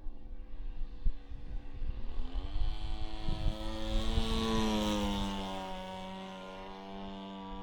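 Two-stroke G26 gasoline engine of a large RC Piper Cub turning an 18x8 propeller in flight. The engine note climbs in pitch and grows louder to a peak about halfway through, then drops to a lower, steady note and fades somewhat as the plane flies by.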